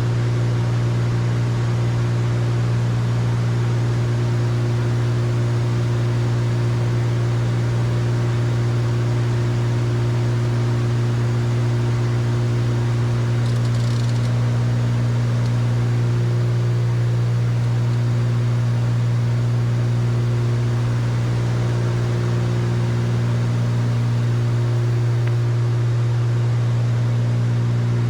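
Cessna 310Q's two flat-six piston engines and propellers droning steadily as heard inside the cockpit, a deep hum with evenly spaced overtones over cabin air noise, at reduced power for the approach.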